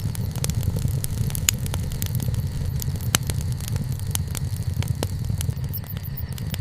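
Wood campfire crackling: frequent sharp pops and snaps from the burning wood, two of them louder, over a steady low rumble.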